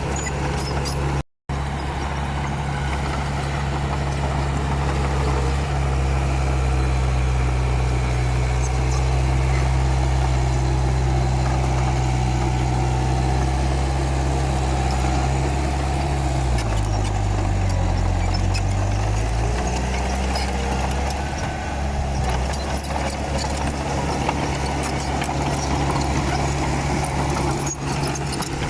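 Komatsu D31P bulldozer's diesel engine running steadily and loud. About sixteen seconds in the engine note drops in pitch for a few seconds, then climbs back. There is a brief total break in the sound about a second in.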